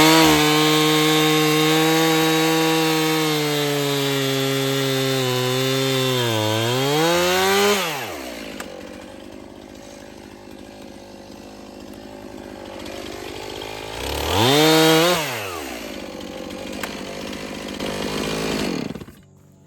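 Two-stroke chainsaw held at full throttle for about six seconds, its pitch dipping and climbing again before it drops to idle. About two-thirds through it revs up briefly, falls back to idle, and goes quiet near the end.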